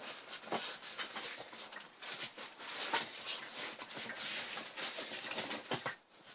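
Rubber wheelbarrow tyre being worked over its metal rim by hand, with irregular rubbing, scuffing and small knocks as the bead is slipped on.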